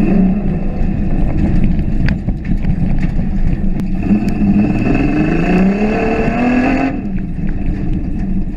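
1989 Ford Ranger prerunner truck's engine running, with its pitch climbing twice through the middle as it accelerates, over a heavy low rumble.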